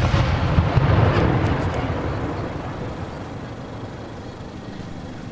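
Aerial firework shell burst echoing away as a long low rumble that fades over about three seconds, with a few faint crackles about a second and a half in.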